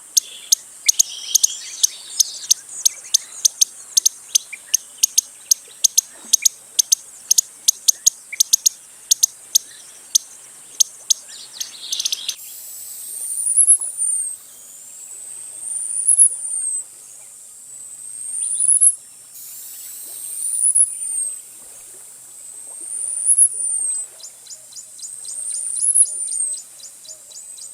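Costa's hummingbird calling: a run of sharp, high ticks, about three a second, then from about halfway a series of high, thin whistles that rise and then fall, one every two to three seconds.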